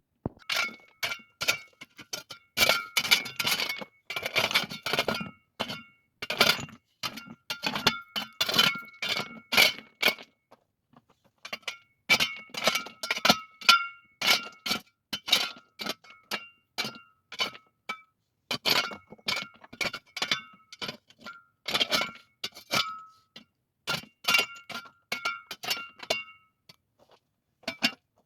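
Utensil clinking rapidly against a ringing metal pot or cup, many quick strikes in bursts with short pauses.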